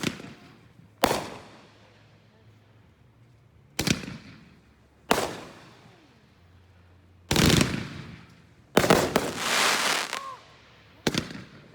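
Consumer firework cake, a two-minute cake, firing shots: about half a dozen sharp bangs at irregular intervals, each trailing off, with a burst of crackling about nine seconds in that lasts over a second.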